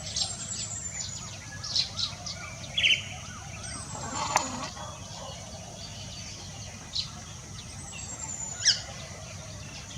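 African grey parrot chirping and whistling: scattered short high chirps and clicks, a few thin falling whistles, and sharper, louder calls about three seconds in and near the end.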